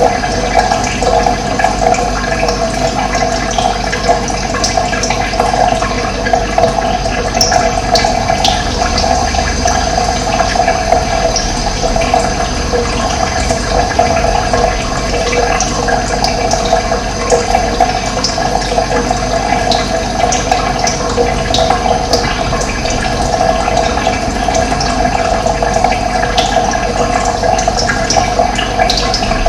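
Steady sound of running water, with short high bird chirps here and there.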